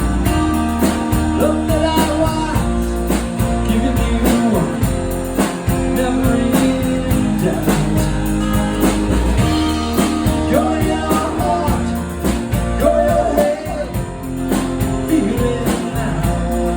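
A rock band playing: guitar, keyboard, bass and drums, with a regular drum beat and held notes.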